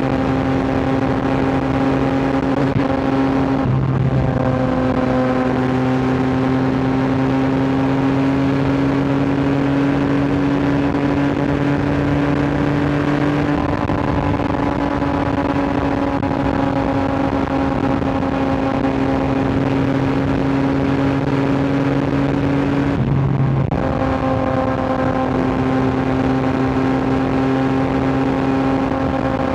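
Yamaha R9 inline-three sportbike engine and exhaust running hard at steady high revs while riding, the pitch creeping slightly higher. The note breaks briefly about four seconds in and again about three-quarters of the way through, like quick throttle lifts or gear changes.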